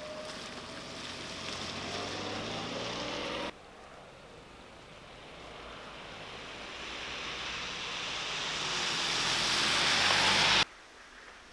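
Tyres hissing on a wet, slushy road as traffic passes. The second stretch grows steadily louder until it cuts off sharply.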